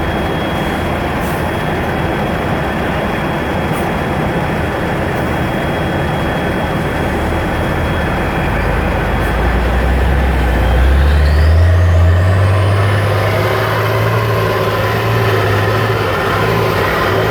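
Tatra 815 truck's diesel engine running hard, its deep note rising about eight to ten seconds in and holding higher and louder, with a high whine climbing steeply in pitch alongside.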